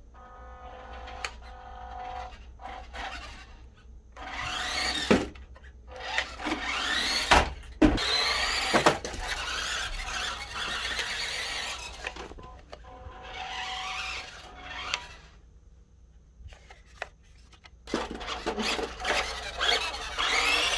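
WPL D12 RC truck's small electric motor and gears whining in repeated bursts, the pitch rising and falling as the throttle is worked, with short pauses between runs.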